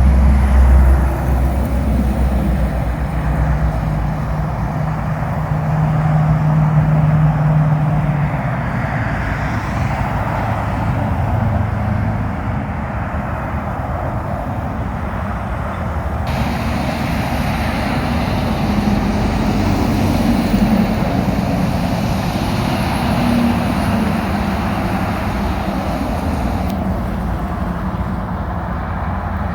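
Highway traffic on a wet road: a semi-truck's diesel engine runs low as it passes in the first several seconds, over steady tyre noise from passing vehicles. A fainter engine tone returns about two-thirds of the way through.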